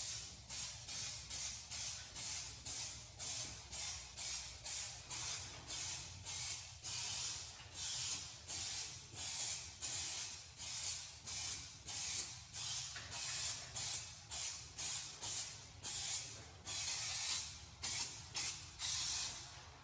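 Rust-Oleum aerosol spray-paint can hissing in short, rapid passes, about two a second, with a few longer sprays in the middle and near the end, as a coat of paint goes onto a plastic truck grille.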